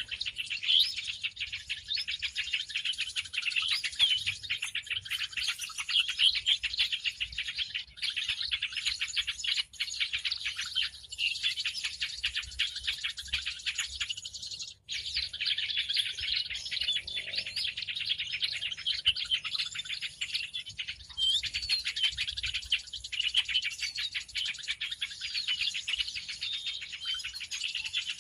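A dense chorus of many small birds chirping and twittering without pause, played as a bird-lure call. There is a brief break about halfway through.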